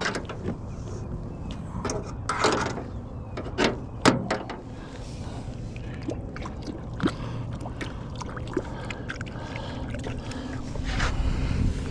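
Scattered knocks, clicks and rattles of gear and a fish being handled in a small aluminum boat, the loudest a sharp knock about four seconds in, over a low steady background of moving water.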